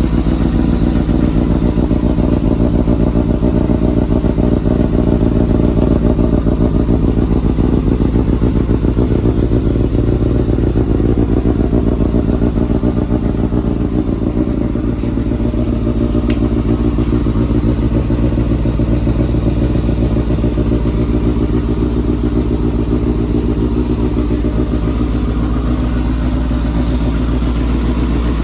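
Kawasaki Balius 250 cc inline-four motorcycle engine running steadily without revving, dropping slightly in level about halfway through.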